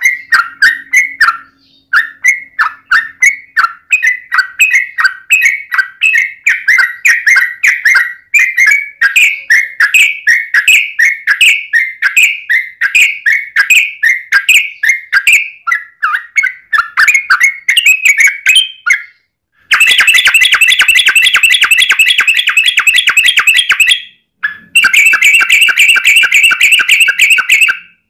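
Yellow-vented bulbul (trucukan) singing: a long run of quick bubbly chirps, about three a second, then near the end two dense, fast rolling chatters of about four seconds each.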